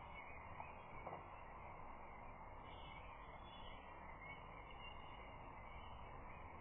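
Faint, steady outdoor background noise with faint distant bird calls.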